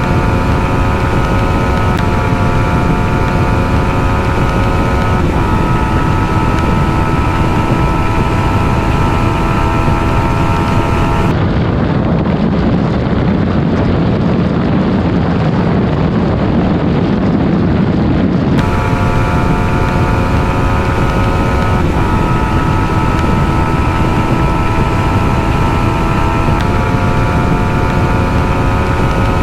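Yamaha 155 cc single-cylinder motorcycle engine running at high, near-steady revs at top speed, its pitch shifting slightly every few seconds, with wind rushing over the microphone. For several seconds in the middle the engine tone drops out and only the wind rush is heard.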